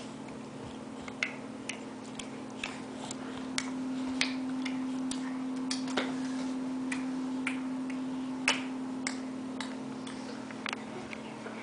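Irregular sharp clicks and taps, roughly one every half second to a second, over a steady low hum.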